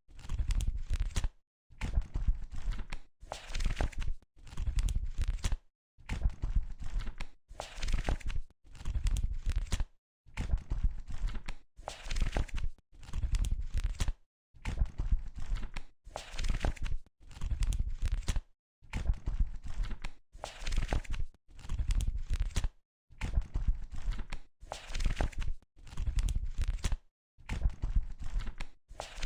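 Book pages being flipped, one after another: each turn is a short papery rustle and flutter, about one every two seconds, with silent gaps between.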